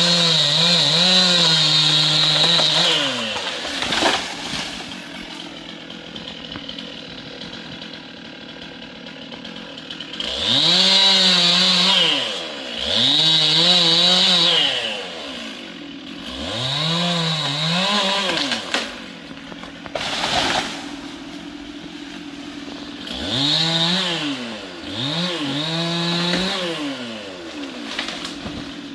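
Stihl two-stroke chainsaw revved to full throttle six times, each burst held for one to three seconds before dropping back to a low idle. Two sharp knocks come during the idle stretches.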